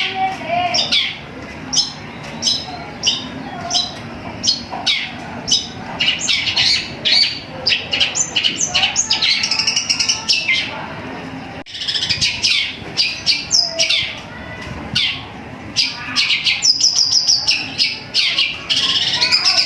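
Long-tailed shrike singing a rapid string of short, high chirps and harsh notes, with calls mimicking a tree sparrow. Near the end the chirps come in a fast, even run.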